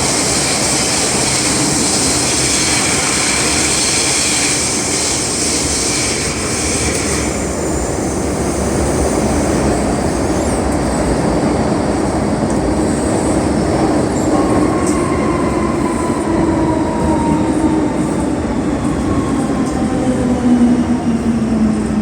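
MTR M-Train heard from inside the car, running at speed with a loud, rushing noise that drops away about seven seconds in. From about halfway, the traction motors' electric braking whine sets in and falls steadily in pitch as the train slows.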